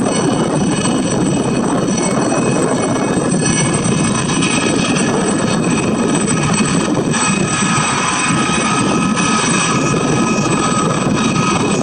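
Aérospatiale Gazelle helicopter flying past: a steady rush from its turboshaft engine and rotors, with high, steady whines from the turbine and the shrouded Fenestron tail rotor above it. A further tone joins about seven seconds in.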